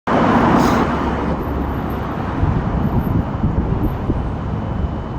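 Wind rushing over the microphone with road rumble while riding a bike, louder for about the first second.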